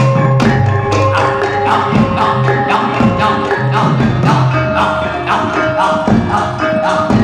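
Javanese gamelan music for a jatilan dance: struck metal notes ring over a low droning bass, with quick drum and percussion beats.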